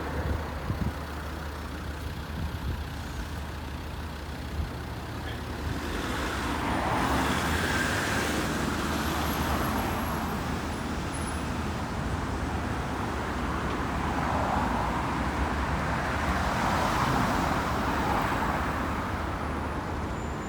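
Road traffic passing a busy junction: a steady low rumble of engines, with vehicles swelling past about a third of the way in and again past the middle.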